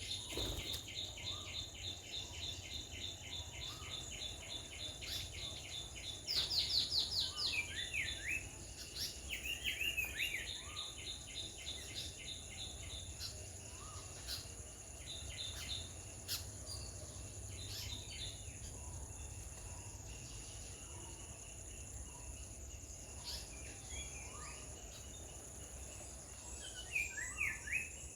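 High, rapid chirping trills and calls over a steady high-pitched insect drone. A louder burst of calls comes about six to seven seconds in, with more a few seconds later and again near the end.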